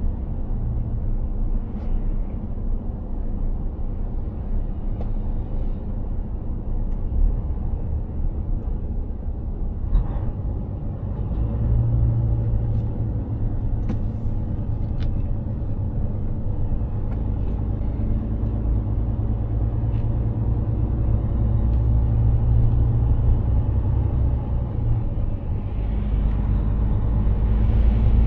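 Mercedes-Benz Actros 2763 truck's straight-six diesel running steadily under way, a low drone of engine and road noise with a few faint clicks. The low engine note grows louder near the end.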